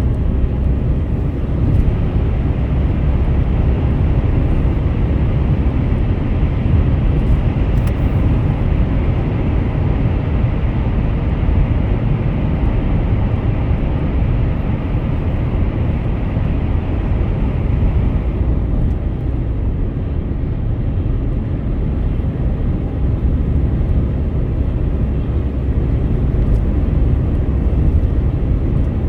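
Steady road noise of a car driving on the highway: a low rumble with tyre hiss over it. The higher hiss eases off about two-thirds of the way through.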